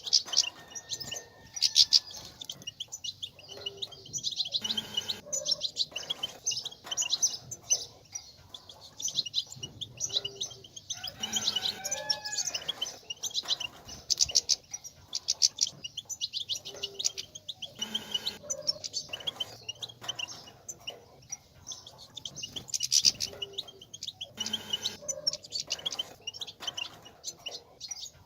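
European goldfinch twittering in a rapid, unbroken chatter of high chirps with short pauses. This is the excited 'bitbita' call used to stir males into song.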